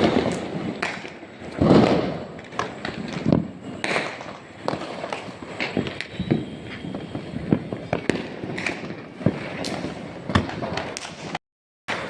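Fireworks and firecrackers going off in irregular cracks and bangs, with a few heavier booms. The sound drops out for about half a second near the end.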